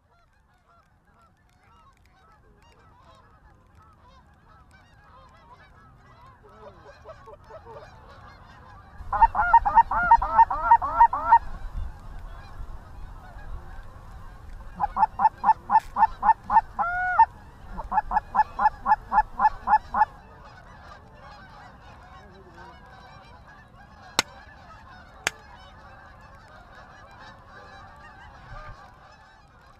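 A flock of Canada geese honking throughout. Three runs of loud, rapid honks come at about four a second, the first about nine seconds in and two more around fifteen and eighteen seconds in. Two sharp clicks sound near the end.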